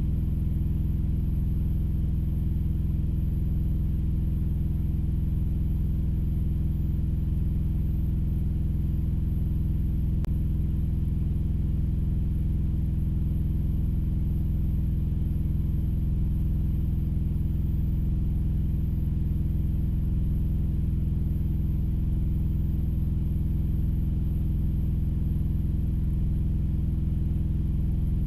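Diesel truck engine idling steadily, heard from inside the cab: an even low rumble with no change in speed. There is one faint click about ten seconds in.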